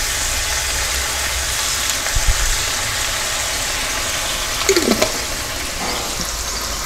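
Chopped chip steak and onions sizzling steadily in a hot wok as sauce is poured onto them from a jar. There are a few brief knocks about two seconds in and a short sound falling in pitch about five seconds in.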